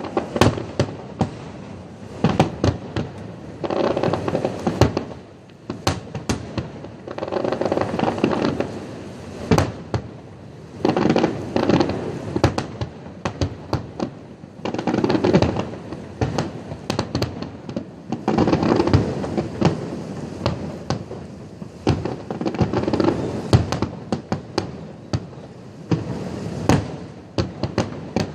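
Fireworks display: a steady run of sharp bangs, with dense bursts of rapid crackling lasting a second or two that come back every few seconds.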